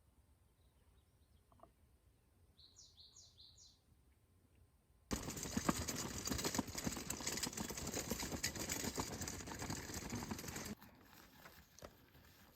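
Faint outdoor quiet with a small bird chirping three times, then about five seconds in a sudden loud rustling, crackling noise that runs for about six seconds and cuts off, leaving a few soft clicks.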